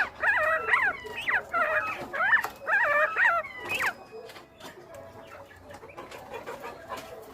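Northern bobwhite quail calling: a run of four or five quick, pitched calls over the first four seconds, then only faint sounds.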